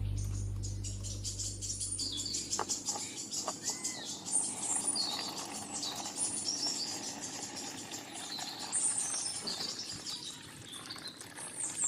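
Small birds chirping, many short high calls scattered throughout with a couple of whistled glides about three to four seconds in, while background music fades out over the first two seconds.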